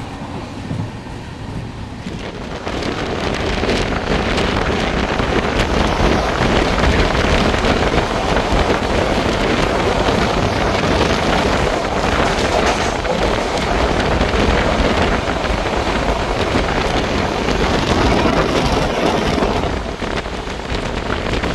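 Train running at speed, heard through an open sleeper-coach window: a steady rush of wind over the microphone mixed with the coach's running noise on the rails. It grows louder about two seconds in.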